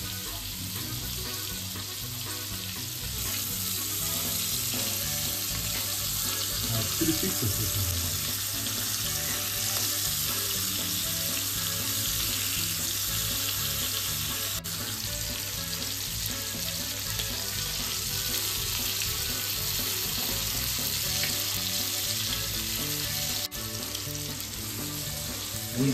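Rice-flour-coated prawns shallow-frying in hot oil on a tawa, sizzling steadily.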